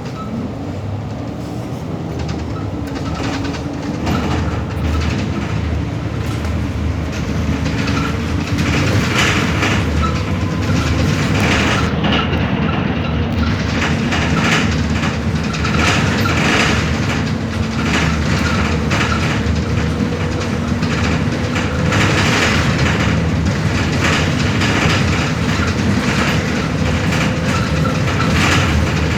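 MAN Lion's City city bus driving, heard from on board: engine hum that slowly rises and falls with speed, under steady road noise and frequent rattles and knocks from the body over the road surface.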